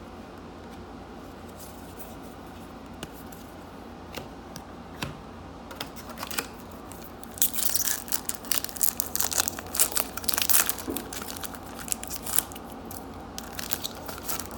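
Foil trading-card pack being torn open and crinkled, a dense run of crackling starting about halfway through, over the steady hum of an air conditioner.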